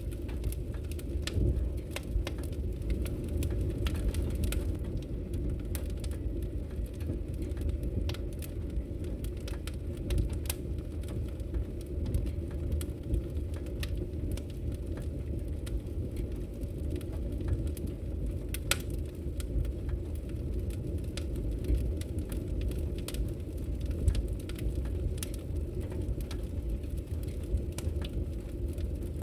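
Wood logs burning in a fireplace: a steady low rumble of the flames with frequent small crackles and occasional sharper pops.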